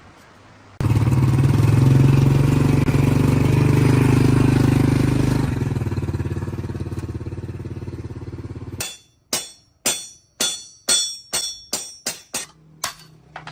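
A motor-driven machine starts abruptly at full speed, runs steadily for about five seconds, then winds down over about three seconds. Near the end comes a rapid string of about a dozen sharp metallic clinks.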